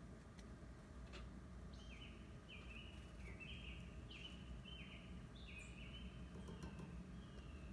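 A bird calling over and over: short, high notes that each fall in pitch, about two a second, starting about two seconds in, faint over a steady low background hum.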